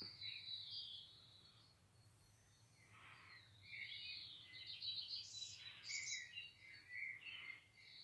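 Faint birdsong: short high chirps and trills that stop for a second or two after about a second, then come back busier.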